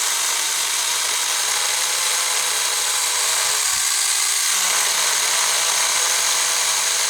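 Saker mini electric chainsaw running and cutting through tough red oak, with a steady whine. It slows briefly about halfway through and picks back up.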